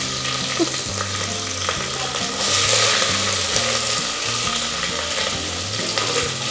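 Sliced onions, green chillies and carrots sizzling in hot ghee and oil in a pressure cooker pan: a steady frying hiss that swells for about a second, two and a half seconds in.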